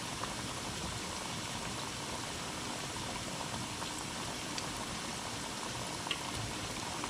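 Food deep-frying in hot oil in a wok: a steady sizzle with scattered small crackles.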